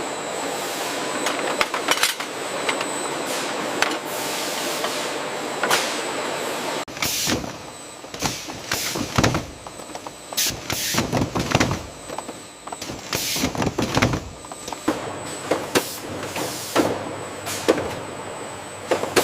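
Soap production line machinery running with a steady hiss and hum. About seven seconds in the sound changes abruptly to irregular short air hisses and clunks, typical of pneumatic actuators on the line.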